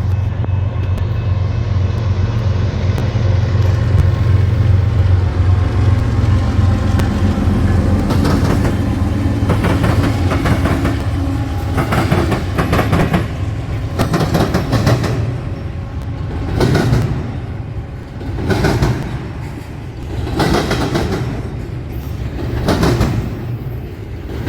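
A passing train: a locomotive's diesel drone at first, then the cars' wheels banging over the rail crossing diamond in a regular clickety-clack. The bangs come about every one to two seconds and grow further apart toward the end.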